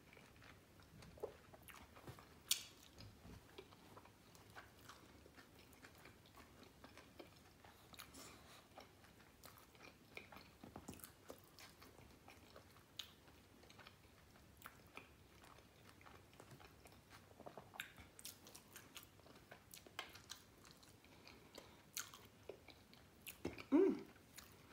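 Close-up mouth sounds of chewing and biting into a bacon cheeseburger: many small wet smacks and crunchy clicks scattered throughout, with a sharper one about two seconds in and a louder one near the end.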